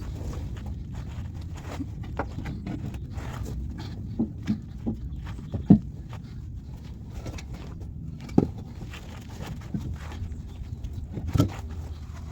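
Scattered single knocks and clunks, about six spread over several seconds, the sharpest two near the middle, over a steady low rumble.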